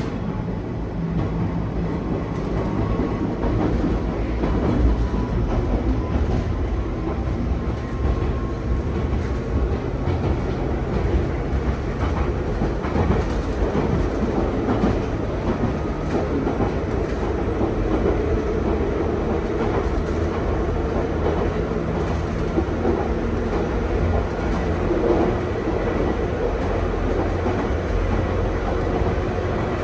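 Nankai 2200-series train car running, heard from inside the passenger cabin: a steady low rumble of wheels on rail. A faint high tone can be heard over the first ten seconds or so.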